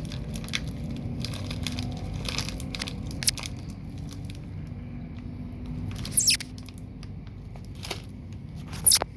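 Someone crunching chips close to the microphone, with crinkling of the snack packet, over a steady hum of street traffic. Two louder, sharper crinkles come about six seconds in and near the end.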